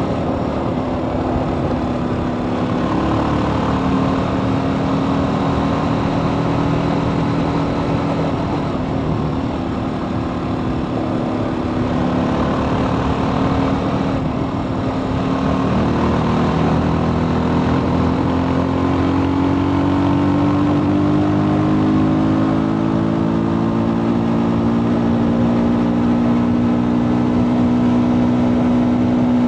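TVS Apache RTR 310's single-cylinder engine running through its stock exhaust while the bike is ridden. The engine note dips about halfway through, then rises gradually and holds higher near the end.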